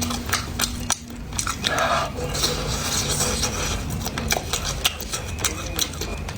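Close-miked eating: wet chewing and smacking mouth sounds with many small clicks, and utensils clinking against a bowl.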